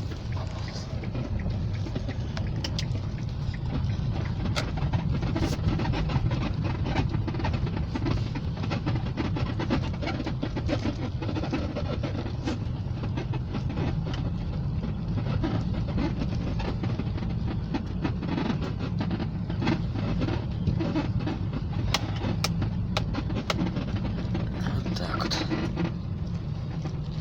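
Kia Rio's suspension creaking and squeaking while driving, with short irregular clicks and creaks over the steady low rumble of the car on the road. The owner says these noises begin only in hard frost, at around −26 to −27 °C.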